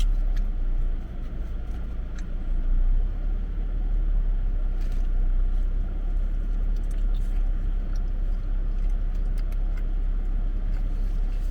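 Steady low vehicle rumble, with scattered small clicks and taps over it.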